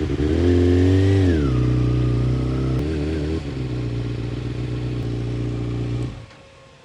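Kawasaki ZX6R's inline-four engine running at low speed, its revs dropping to idle about a second and a half in and then idling steadily. It is switched off about six seconds in.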